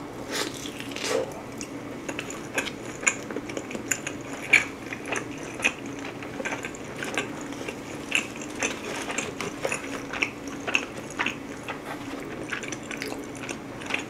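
Close-miked chewing and biting of thin-crust pizza, with many small irregular crunching clicks from the crust.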